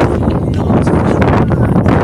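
Strong wind buffeting the microphone: a loud, gusty rumble that is heaviest in the low end, with flickering hiss above.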